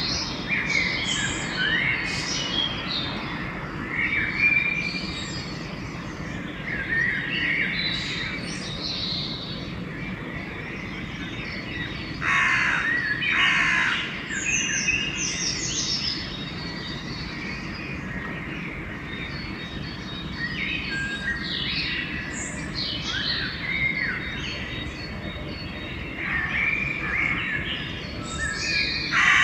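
Pre-dawn chorus of songbirds chirping and singing without pause. Crows caw harshly a couple of times about twelve seconds in and again near the end, over a steady low background rumble.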